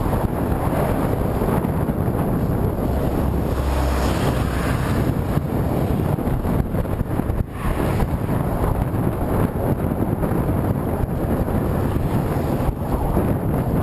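Heavy wind noise buffeting the microphone of a camera on a bicycle ridden into a headwind, a dense, steady rumble that dips briefly about seven and a half seconds in.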